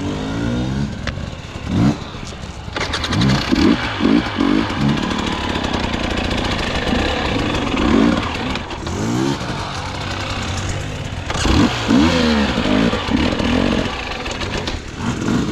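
Dirt bike engine revving up and down again and again in short throttle bursts, its pitch rising and falling quickly.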